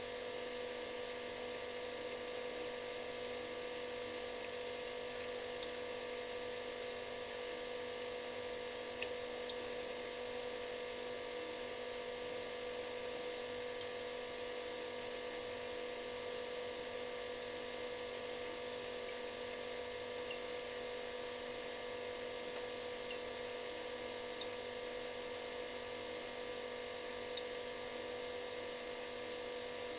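Refrigerator running: a steady electrical buzz with one strong mid-pitched tone and several fainter tones above and below it, over a soft even hiss, broken only by a few faint ticks.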